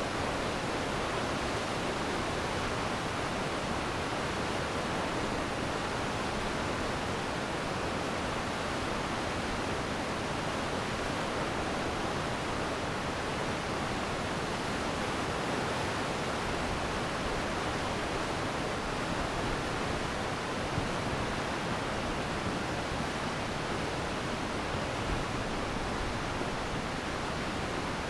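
Glacier meltwater stream rushing steadily, an even, full hiss of fast-flowing water.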